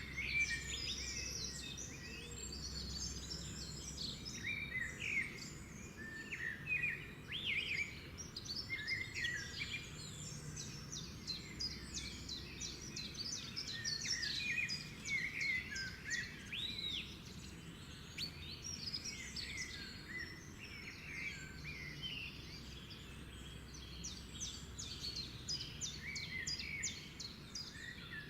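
A chorus of many birds singing at once, a dense overlapping run of short chirps, trills and whistles that carries on without a break, over a steady low background noise.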